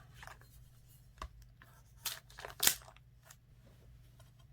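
A few short scratchy rips and crinkles of the plastic wrap on a sealed trading-card box being slit with a knife and torn, the loudest a little past halfway.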